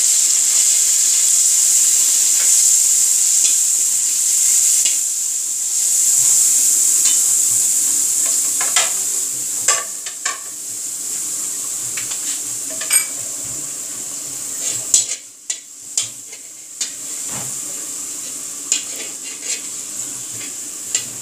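Garlic-ginger paste sizzling in hot oil in a metal wok while a slotted metal spatula stirs it, scraping and clinking against the pan. The sizzle is loudest at first and settles to a lower hiss over the second half, when the spatula's sharp taps and scrapes stand out.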